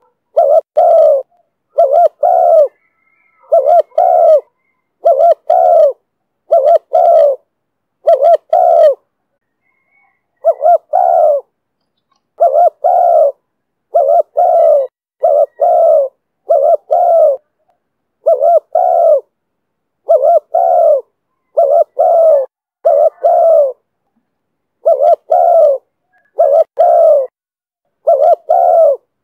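Spotted dove cooing in its 'thổ thúc bổi' call style: short phrases of two or three low coo notes, repeated steadily about every second and a half, with brief pauses about nine seconds in and again about twenty-four seconds in.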